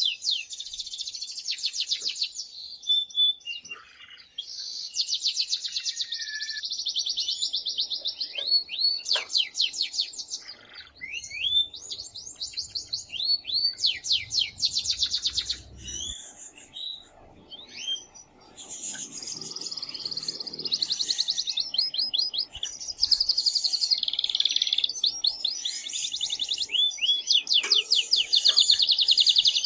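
Male domestic canary singing loudly, in long fast trills and rolling phrases with short pauses between them: an excited courtship song.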